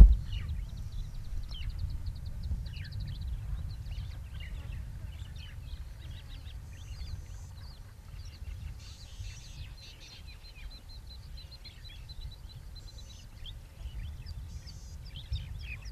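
Small birds chirping over and over, with a few rapid ticking trills, above a steady low rumble.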